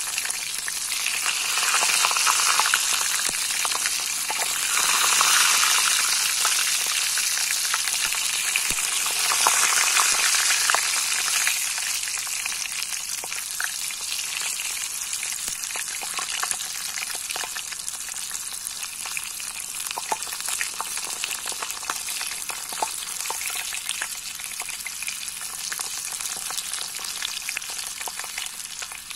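Food frying in hot oil, a steady sizzle with dense crackling. It swells louder a few times in the first ten seconds, then settles slowly lower.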